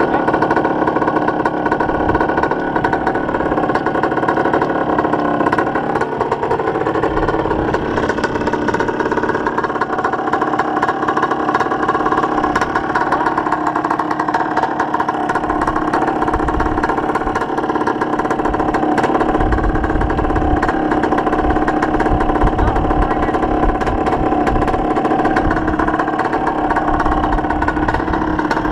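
Dirt bike engine running continuously at fairly steady revs, with small rises and dips in pitch.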